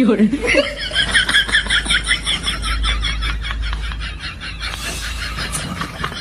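Laughter sound effect: rapid, high-pitched snickering laughter in quick repeated bursts, cutting in suddenly at the start.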